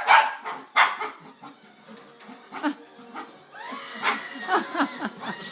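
A dog barking, with two loud barks in the first second and quieter sounds after.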